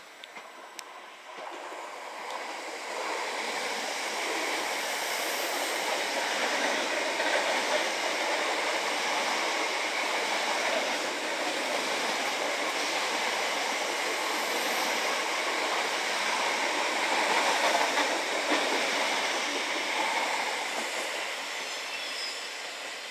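Electric multiple-unit train passing close at speed: a steady rumble and rush of wheels on rail that builds over the first few seconds and fades away near the end.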